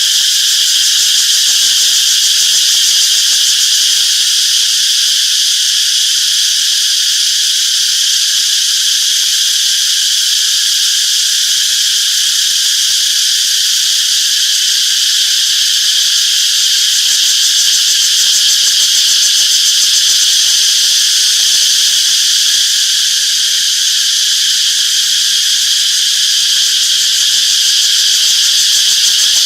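Chorus of cicadas buzzing in a continuous, loud, high-pitched drone with no pauses.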